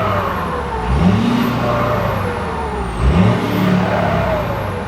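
Straight-piped Ford F-250 exhaust, loud, with the engine pulling hard under full throttle and rising in pitch twice, about a second in and again about three seconds in.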